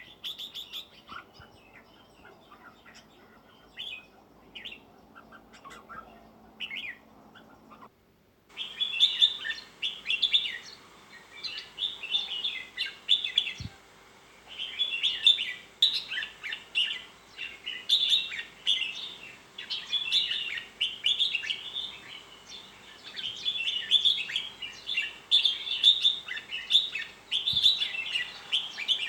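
Red-whiskered bulbuls singing in short phrases. The song is sparse and faint at first, then after a brief break about eight seconds in it becomes louder and almost continuous.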